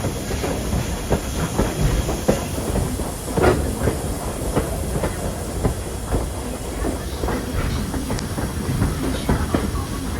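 Passenger train rolling slowly into a station, its wheels clicking irregularly over rail joints against a steady rumble and hiss.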